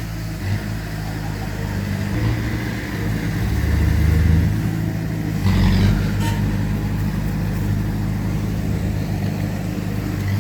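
Heavy diesel engine of earthmoving machinery running under load, its low drone swelling briefly about four seconds in and again about five and a half seconds in.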